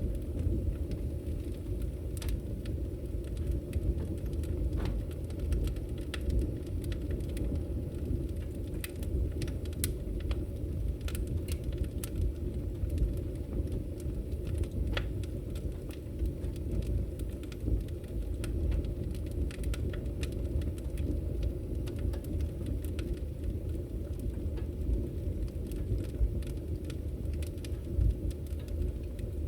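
Wood fire burning in a fireplace: a steady low rumble with frequent, irregular sharp crackles and pops of burning logs.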